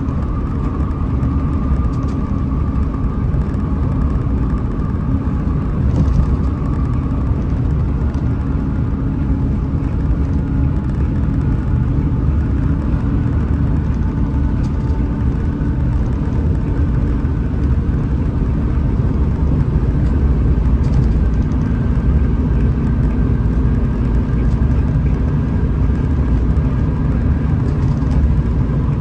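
Hino RM 280 bus running at road speed: a steady engine drone over tyre and road rumble. The engine note rises slowly in pitch through the middle stretch, then holds.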